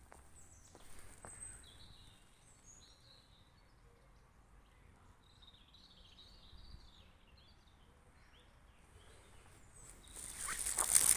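Small birds chirping and calling in short scattered notes over a faint outdoor background. About ten seconds in, a loud crackling rustle breaks in.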